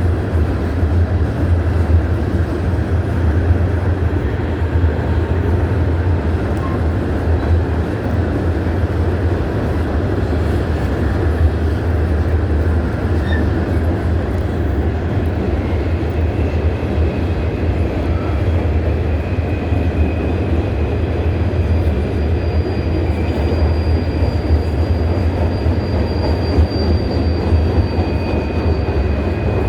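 Empty coal train's hopper cars rolling past: a steady rumble of steel wheels on rail, with faint high-pitched wheel squeal coming in about halfway through.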